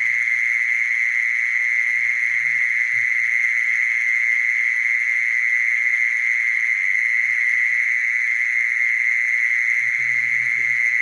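Mole cricket singing: one steady, unbroken high-pitched song.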